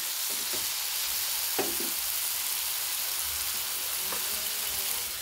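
Chopped tomatoes, onions and spice masala sizzling in hot oil in a non-stick kadai while a wooden spatula stirs them, a steady sizzle with a soft knock of the spatula on the pan about one and a half seconds in.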